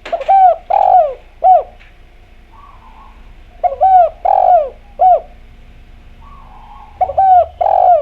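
Spotted dove (Javanese derkuku) cooing: three song phrases about three and a half seconds apart. Each is a soft low note and then three or four loud coos that rise and fall in pitch, the last one short.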